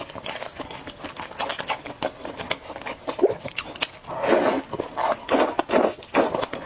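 Close-miked eating sounds: rapid wet chewing clicks, with several longer slurping bursts about four to six seconds in, typical of noodles being sucked up.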